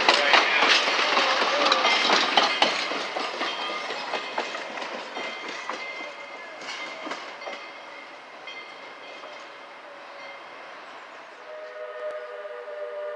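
Passing train with wheels clicking over the rail joints, fading as it moves away. About eleven seconds in, the train sounds a distant chord of several steady notes.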